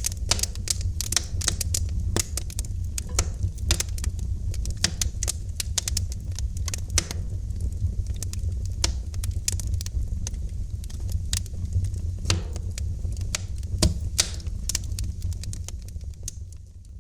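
Wood fire in a fireplace crackling, with irregular sharp pops and snaps over a steady low rumble of the flames. The sound fades down near the end.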